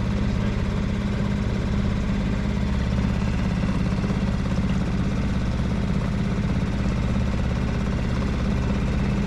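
A boat's outboard motor running steadily at a constant speed with a low, even drone.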